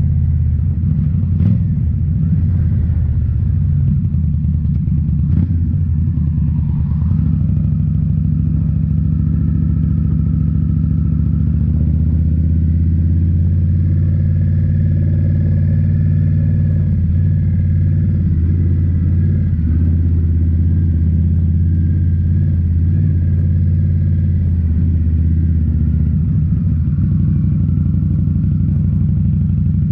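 A 2018 Indian Scout Bobber's V-twin engine running through Rinehart slip-on mufflers under way, with a deep, steady exhaust note. Its pitch shifts about twelve seconds in and again near the end.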